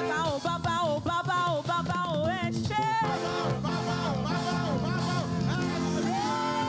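Live praise band music: a wavering lead melody that bends up and down over steady chords and bass, with a quick upward run about three seconds in, settling into a long held note near the end.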